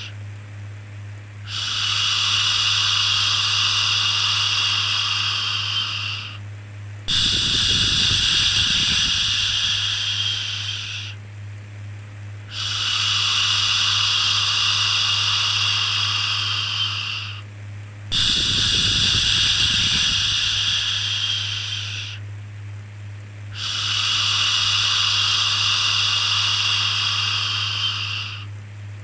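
Soothing shushing, a long "shhh" repeated five times, each lasting about four to five seconds with a short breath-like pause between, used as white noise to settle a baby. A steady low hum runs underneath.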